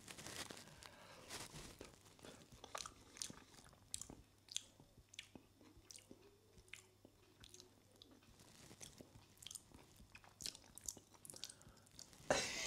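A person chewing a mouthful of rehydrated rice curry close to the microphone: soft wet mouth clicks and smacks scattered throughout. Near the end comes a louder scrape as the spoon goes back into the bowl.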